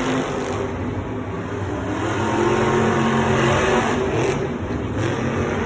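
Monster truck engines revving hard during a race, their pitch rising and falling.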